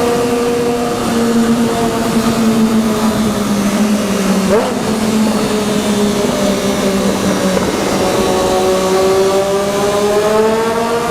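Triumph Daytona 675R's inline three-cylinder engine running at a steady cruise, over a steady rush of wind noise. Its pitch sags slowly, then rises again over the last few seconds as the throttle is opened.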